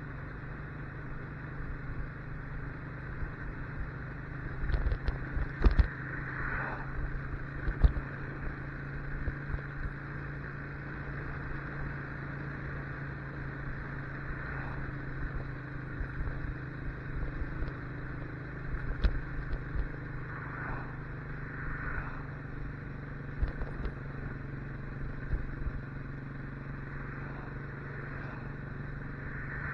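Motorcycle engine running at a steady speed while riding, with scattered knocks and thumps that are loudest about five to eight seconds in.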